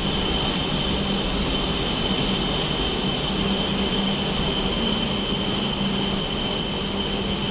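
Shinkansen bullet train pulling into the station alongside the platform: a steady rushing rumble with a high, steady whine over it.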